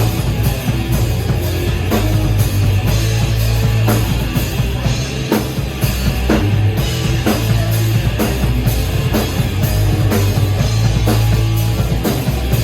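Loud crust punk / black metal played by a rock band: distorted guitars, heavy bass and drum kit in a steady driving beat.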